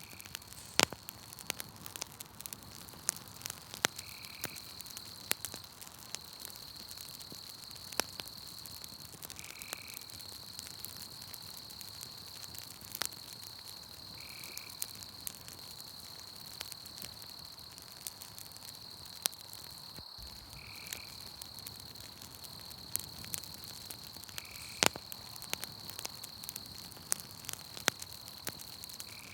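Campfire crackling with scattered sharp pops, over a steady high-pitched insect trill, with a short call repeating about every five seconds.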